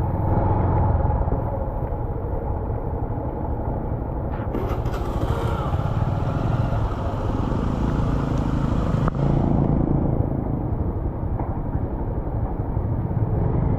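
Honda XR150 single-cylinder motorcycle engine running at low speed, with a rushing hiss added for a few seconds midway.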